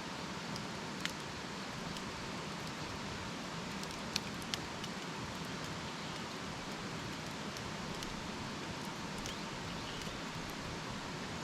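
Wood campfire burning with a steady hiss and scattered sharp crackles, the loudest pops about a second in and twice around four seconds in.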